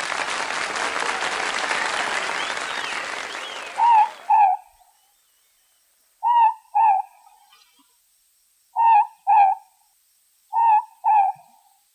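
A morepork (ruru), New Zealand's small owl, calls its two-note 'more-pork' four times, each pair of hoots a fraction of a second apart, with pauses between. The calls start after a hiss of noise fades out over the first four seconds.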